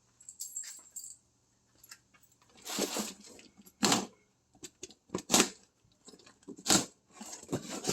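Handling noises from work on parts: a few short clanks and scrapes about a second apart, with quieter rustling in between.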